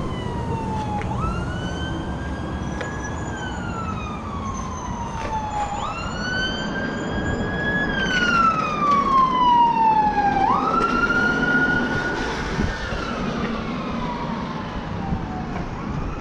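Siren wailing: a pitch that jumps up quickly and then slides slowly down over about four seconds, three times over, loudest in the middle.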